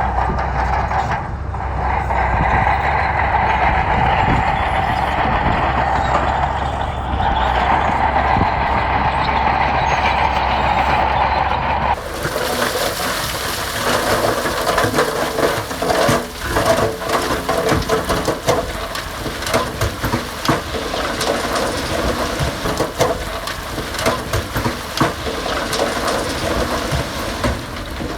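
Heavy diesel earthmoving machinery running steadily under load. About twelve seconds in, the sound changes abruptly to a rougher engine mixed with dense clattering and crunching.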